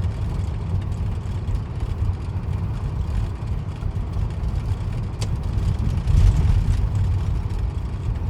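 Peterbilt 379 truck with a Cat C-15 diesel running down the road: a steady low rumble, with a brief click about five seconds in and a louder low swell a little after six seconds.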